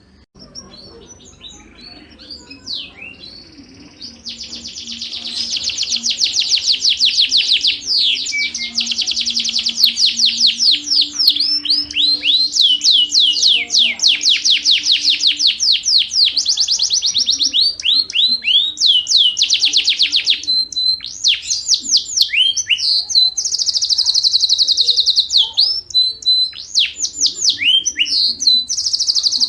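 Yorkshire canary singing: a few scattered chirps, then, about four seconds in, long, very fast trills and rolls that run almost without a break, with short pauses and quick downward sweeps between phrases.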